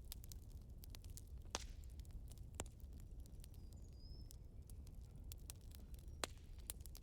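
Wood fire crackling, with irregular small pops and a few sharper snaps about one and a half, two and a half and six seconds in.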